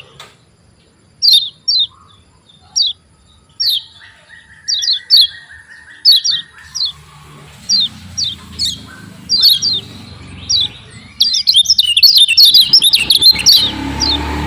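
Kecial kuning white-eye calling: short, sharply falling 'ciak' chirps, often in pairs, breaking into a fast run of chirps about three quarters of the way in. A buzzy steady note sounds for a couple of seconds near the start, and a low rumble comes in about halfway.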